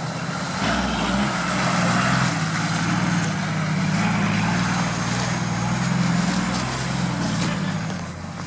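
Off-road 4x4 vehicle engine running under varying throttle, getting louder about a second in and easing off near the end.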